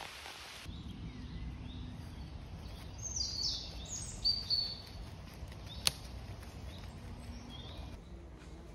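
Songbirds singing in a wet forest, with a run of short falling notes a few seconds in, over a low rumble. A steady hiss of rain cuts off abruptly less than a second in, and there is a single sharp click about six seconds in.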